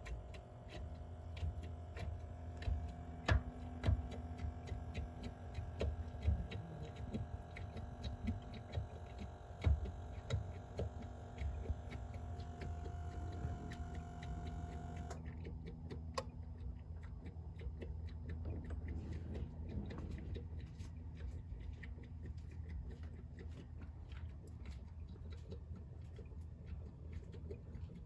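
Irregular, unsteady ticking from the engine of a hot 2017 Chevrolet Silverado 6.2 L V8 just after it has been shut off, over a steady hum that cuts off about halfway through. The owner puts the ticking down to head gaskets, fitted during an AFM lifter replacement, that were either defective or installed backwards, restricting coolant so that the noise comes from the cooling system.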